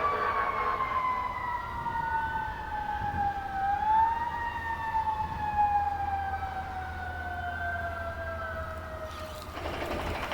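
A siren wailing, its pitch sliding slowly down over about nine seconds with a brief rise partway through. A second siren tone overlaps it, and both stop near the end.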